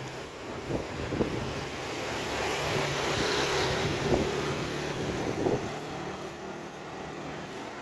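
A motor vehicle passing along the street: engine hum and road noise swell in the middle and fade near the end, with a few sharp knocks along the way.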